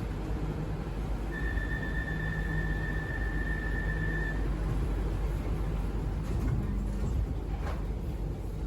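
Metro train interior at a station stop: a steady low hum of the carriage, with a single steady high beep lasting about three seconds, typical of the door-closing warning tone. A faint knock comes near the end.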